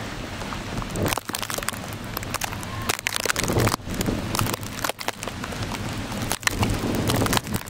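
Winter storm noise: a dense crackling hiss with many sharp ticks and uneven surges, from wind-driven snow or sleet.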